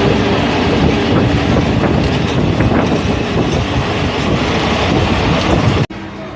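Railway train running, a loud, steady rush and rumble of wheels on the track. It cuts off abruptly near the end to a much quieter background.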